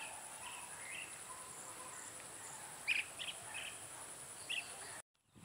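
A steady high insect trill with a few short bird chirps scattered over it, the loudest about three seconds in. The sound cuts out abruptly near the end.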